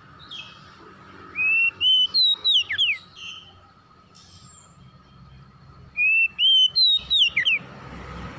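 Oriental magpie-robin (kacer) singing: two matching whistled phrases about four and a half seconds apart, each a run of clear notes that step up in pitch and end in quick downward sweeps.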